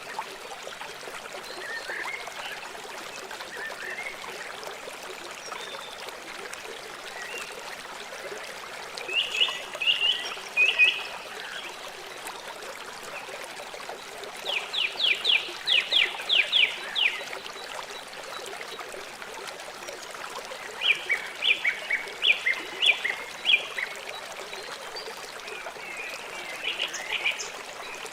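A river flowing steadily. Over it, an animal gives four bouts of short, rapid, evenly spaced calls, about nine, fifteen, twenty-one and twenty-seven seconds in, each bout lasting one to three seconds and louder than the water.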